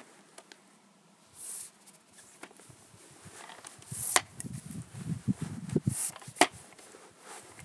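Handling noise of camera gear being set up: scattered small clicks, knocks and rustling, with two sharp clicks about four and six and a half seconds in.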